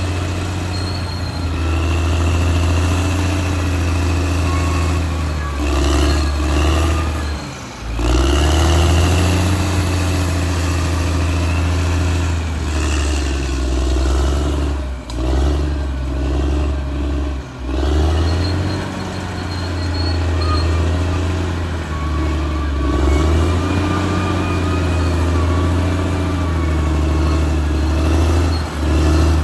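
Caterpillar D6R XL bulldozer's diesel engine working, its note dipping briefly and picking back up several times, with a faint high whine above it.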